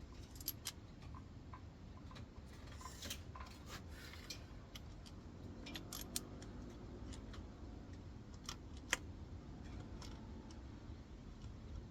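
Scattered light clicks and taps of hand tools and parts being handled while a new alternator freewheel pulley is fitted, with one sharper click about nine seconds in.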